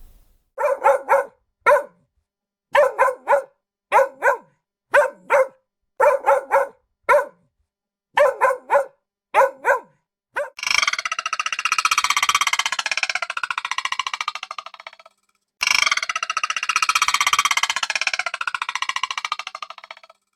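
An animal giving short, sharp barks in quick groups of two or three for the first half. The second half holds a long, dense, rapid chattering or rattling call in two runs, with a short break between them.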